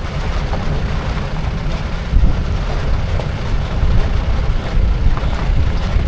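Safari jeep driving on a rough jungle track: a loud, uneven low rumble with scattered knocks and rattles.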